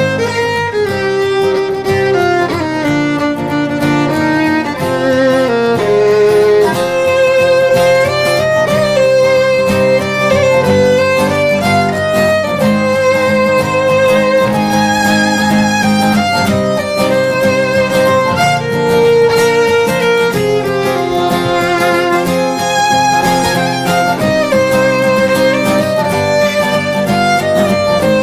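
Instrumental break: a solo violin plays a melody with vibrato over a steady lower accompaniment.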